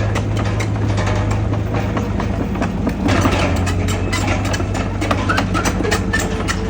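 Heavy diesel engine of earthmoving machinery running steadily, with frequent metallic clanks and rattles over the engine hum.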